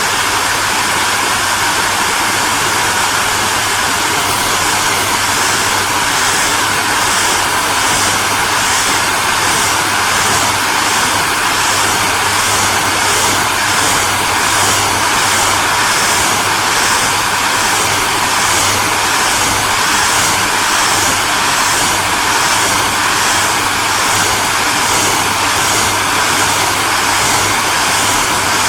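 Hair dryer running continuously: steady blowing air over a low motor hum, with a faint even pulsing in the high hiss.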